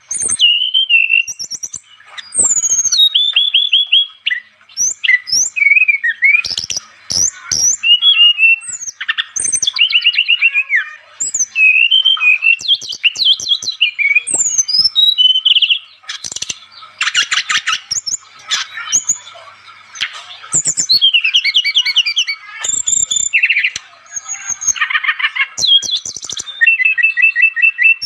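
Brown-chested jungle flycatcher (sikatan rimba dada coklat) singing in full, loud song. It is a varied run of high whistled glides and rapid trills, in phrases broken by short pauses.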